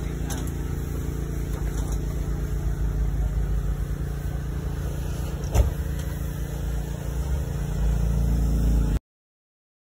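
A vehicle engine running steadily, with one sharp knock about five and a half seconds in; the sound cuts off suddenly near the end.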